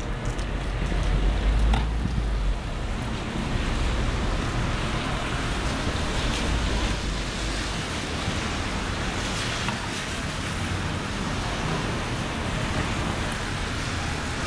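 Heavy rain falling steadily on a city street, a dense even hiss, with a low rumble in the first couple of seconds.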